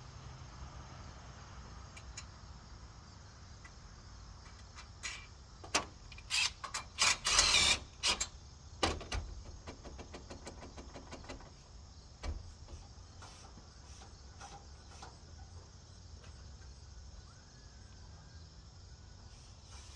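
A quick run of clanks, scrapes and knocks about six to nine seconds in, with one more knock a few seconds later, over a low steady hum.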